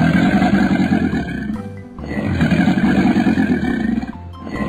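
Animal roar sound effect for an animated crocodile: a rough, low growling roar played over and over, about every two seconds. Children's background music with a steady bass line plays underneath.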